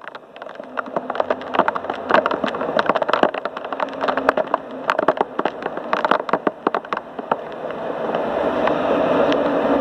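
Heavy thunderstorm rain pouring, with many sharp drips and splats close by over a steady rush and a low rumble underneath; the rush swells louder near the end.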